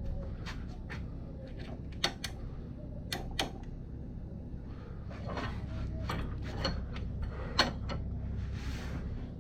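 Scattered sharp metallic clicks and knocks of hand tools and parts being handled, the loudest about two thirds of the way in, over a steady low hum.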